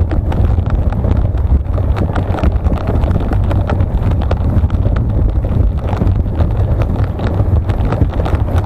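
Sled dog team running on snow: a quick, irregular patter of paws and sled noise, with wind buffeting the microphone.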